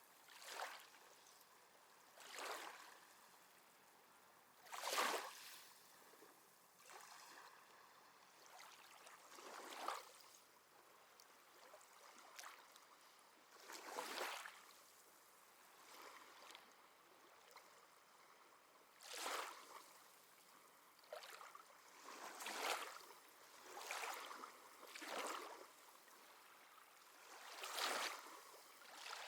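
Small, gentle sea waves lapping and washing in faint, short splashes, one every two to three seconds.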